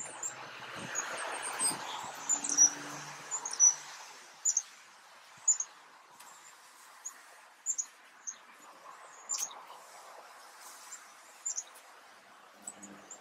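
A small bird chirping repeatedly, short high chirps about once a second. Under it a soft rustle of eucalyptus foliage being handled, strongest in the first few seconds.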